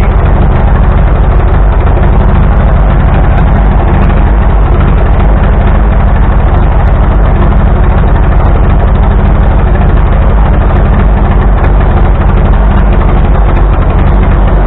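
1945 Ford 2N tractor's four-cylinder flathead engine running at a steady idle, loud and close.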